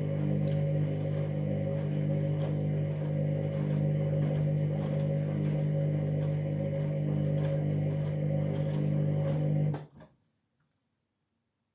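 Candy washing machine running with a steady electrical hum, which cuts off abruptly near the end.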